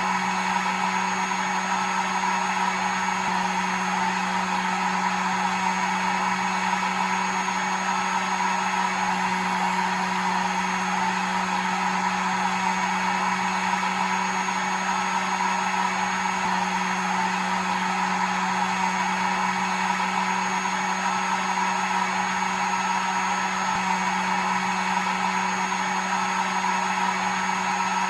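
Hair dryer running steadily, an even rush of air over a constant motor hum.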